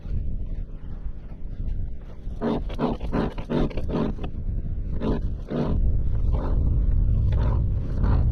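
A man breathing hard and grunting in short heaves while hauling in an anchor by hand, over a low rumble that grows louder about halfway through.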